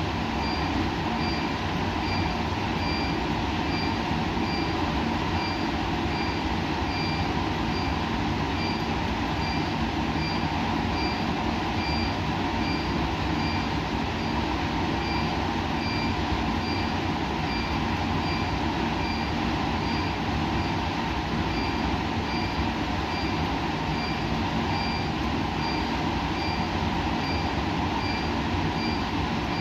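Steady hum and hiss of running laboratory equipment, with a faint, short high-pitched beep repeating a little more often than once a second.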